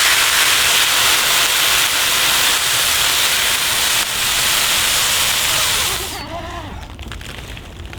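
A loud, steady hiss that stops about six seconds in.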